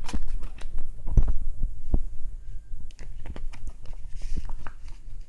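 A CD case and its packaging handled close to the microphone: irregular clicks, taps and light plastic rustling over low thumps and a steady hum.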